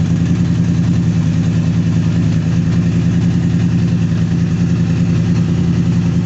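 Motorcycle engine idling steadily, just after being started.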